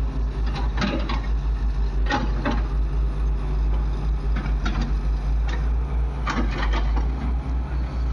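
Heavy diesel engine running with a steady low throb, with repeated sharp knocks and clanks scattered through it.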